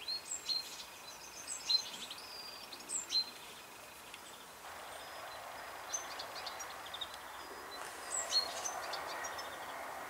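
Small birds chirping in quick runs of short, high, sweeping notes over a faint steady background noise. The background noise grows fuller about halfway through.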